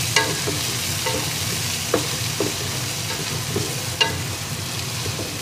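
Onions and ginger-garlic paste sizzling in hot oil while a spoon stirs them in a metal pot. A few times the spoon knocks against the pot with a short metallic ring.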